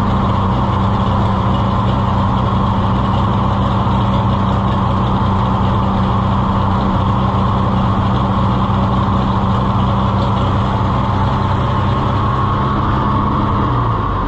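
Oliver 1800 tractor engine running steadily after a cold start; near the end its speed drops and it runs slower and a little quieter.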